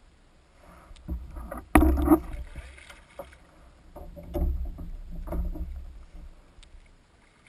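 Knocks and bumps on a kayak with water moving around it, the loudest a sharp knock about two seconds in, then a few softer thumps.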